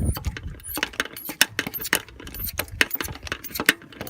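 Irregular metallic clicks and clinks of a thin 10mm deep socket being turned by hand to unscrew a diesel glow plug.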